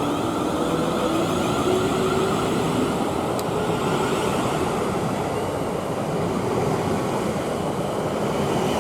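Train running into the station platform: a steady rumble of wheels and rail, with a high steady tone joining about halfway through.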